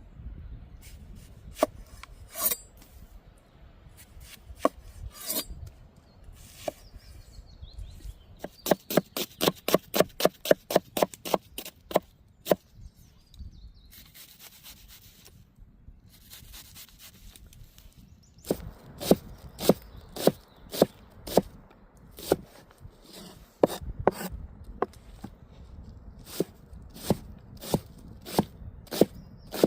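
Knife chopping on a wooden cutting board in runs of sharp strokes, one quick run of about five strokes a second, then slower runs of about two a second.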